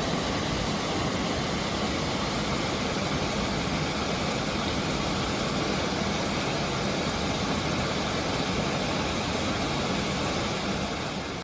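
Steady, loud rush of falling water from the Atysh waterfall, an even roar with no rhythm or pauses.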